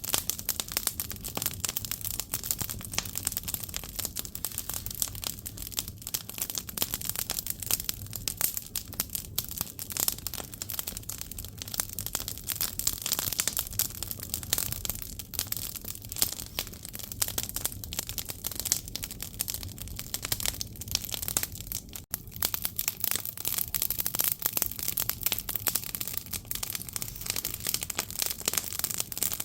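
Firewood burning in an agungi, a Korean traditional wood-fired firebox: dense, continuous crackling and popping of the burning logs.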